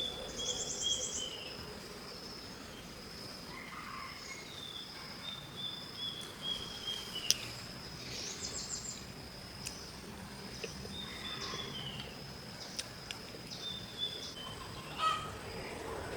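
An insect's steady high trill runs throughout, while a bird repeats a short falling phrase of notes several times. A single sharp click about seven seconds in is the loudest sound.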